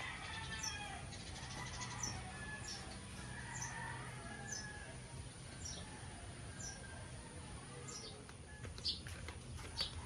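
Birds chirping: a short, high, falling chirp repeats about once a second over other fainter bird calls, with a faint steady low hum underneath.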